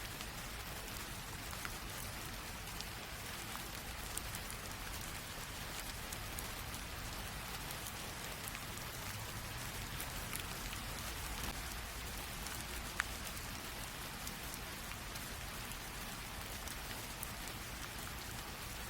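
Light rain drizzle falling steadily, an even hiss with scattered individual drop ticks and one sharper tick near the middle.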